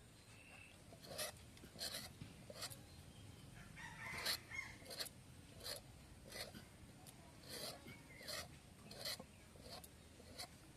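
Bottle gourd being peeled: short, even scraping strokes of a blade over the gourd's skin, about one every 0.7 seconds, faint.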